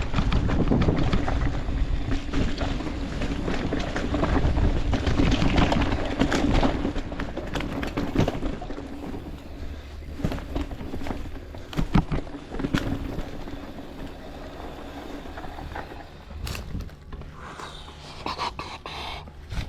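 Wind rushing over the microphone with edges scraping over snow on a downhill slope run, loud for the first six or seven seconds, then quieter with scattered sharp knocks.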